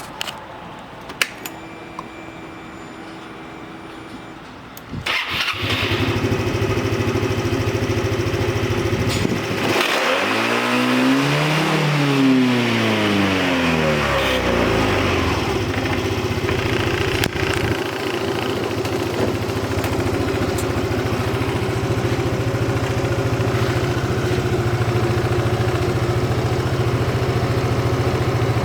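Yamaha Cygnus 125X FI scooter's single-cylinder four-stroke engine being started: a few clicks and a faint hum, then the engine starts about five seconds in and settles to idle. The throttle is opened once around ten seconds in, the revs rising and falling back, and it idles steadily after that.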